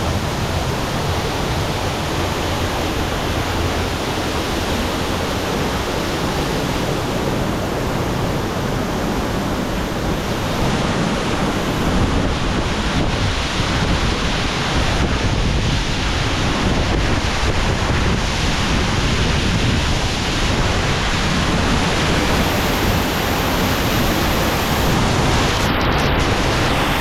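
Waterfall pouring into a pool: a steady, loud rushing of falling water.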